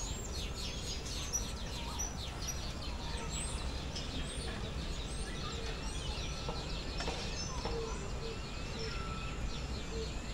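Many small aviary birds chirping and chattering at once, dense quick calls over a steady low background rumble. In the second half a low note repeats about twice a second.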